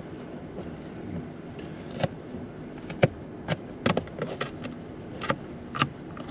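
Kitchen knife cutting a jalapeño pepper, giving irregular sharp knocks on the cutting surface, the loudest about halfway through, over a steady low background noise.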